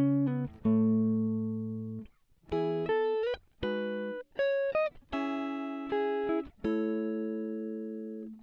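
Background music: a plucked guitar playing single sustained notes and short phrases with some sliding notes, each note fading before the next.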